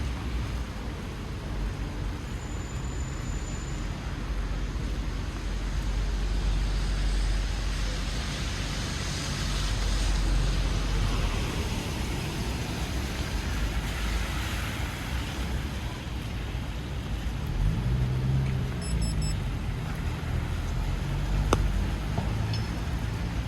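City street traffic on a rain-wet avenue: cars passing with tyres hissing on the wet road over a steady low engine rumble. One vehicle's engine pitch sweeps up and down about three-quarters of the way through, and a single sharp click sounds near the end.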